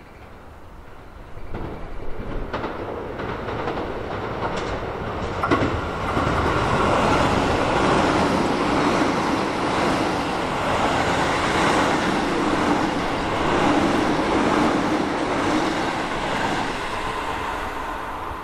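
Keio 7000 series electric train running past. The sound builds from about a second and a half in, stays loudest through the middle and dies away near the end, with a few sharp clicks of the wheels early in the pass.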